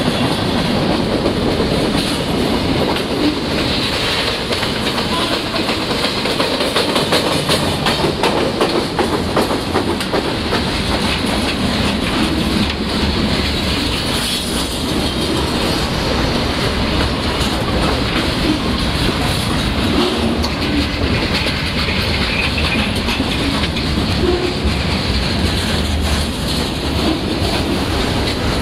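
Loaded freight cars of a CSX mixed freight rolling past at close range while the train brakes: steel wheels clicking over the rail joints over a steady rumble, with some wheel squeal.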